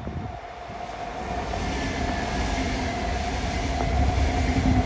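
A train approaching on the track, its rumble and rail noise growing steadily louder, with a steady whine running through it.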